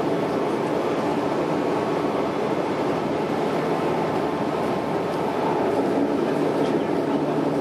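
Running noise heard inside a Tokyo Metro 06 series electric train car cruising between stations: a steady rumble of wheels on rail with a faint steady hum.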